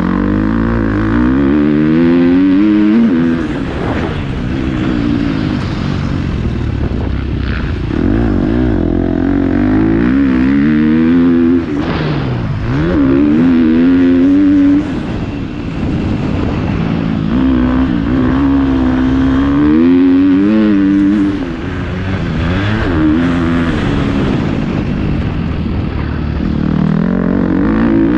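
Motocross dirt bike engine heard close up from the bike, revving up and falling back repeatedly as the throttle is opened and closed, with a few brief drops where the throttle is shut off.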